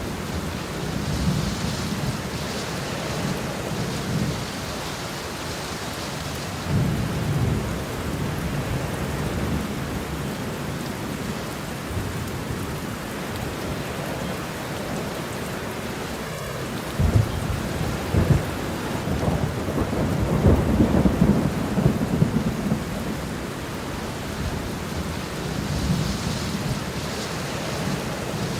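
Steady heavy rain with rolling thunder: low rumbles swell and fade several times, the loudest roll about seventeen seconds in and lasting several seconds.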